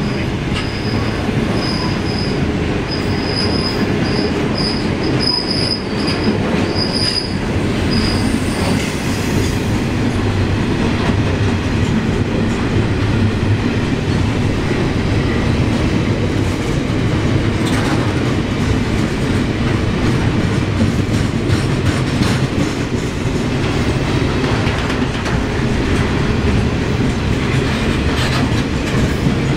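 Freight train of grain hopper wagons rolling steadily past at close range, a continuous heavy rumble of wheels on rail. During roughly the first third a thin, high-pitched wheel squeal comes and goes in short repeated bursts, then fades out.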